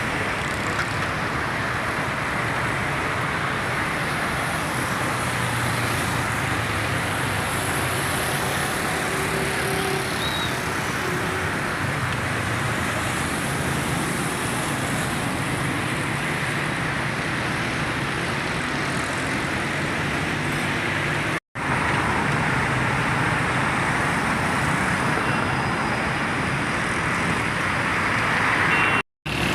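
Steady road traffic noise from passing vehicles, a continuous hiss and rumble that cuts out briefly twice, about two-thirds of the way in and again near the end.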